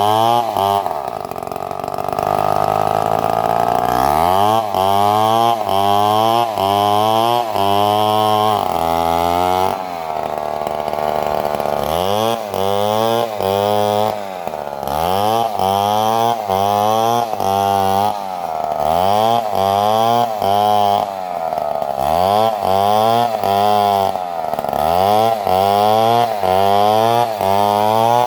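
Stihl two-stroke chainsaw running hard while cutting into a coconut palm trunk. The engine note dips and recovers about once a second as the chain bites, with two spells of steady high free-revving: one early, one around the middle.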